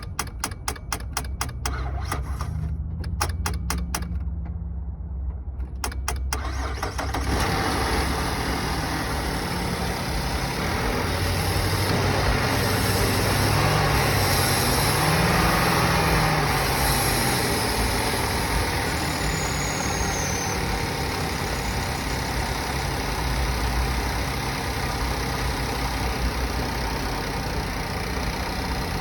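2013 Chevy Traverse 3.6-litre V6 engine running on test. For the first seven seconds or so there is a rapid, regular ticking of about four or five ticks a second over the engine. Then it runs steadily, is revved up and back down once near the middle, and settles to idle.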